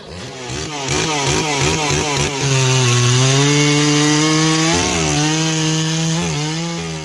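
Two-stroke chainsaw revved in short bursts, then held at high revs as it cuts into a teak log, with a couple of brief dips in pitch under load.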